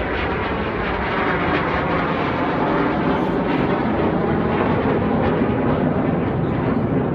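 Jet noise from the Red Arrows' synchro pair of BAE Hawk T1 jets flying past on their final display pass: a steady, loud rushing noise that slowly grows louder.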